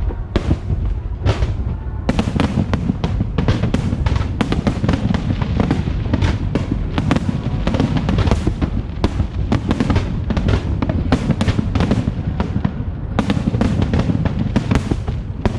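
Aerial fireworks bursting in a rapid, overlapping barrage: several sharp bangs a second, growing denser after about two seconds, over a continuous deep rumble of shell explosions.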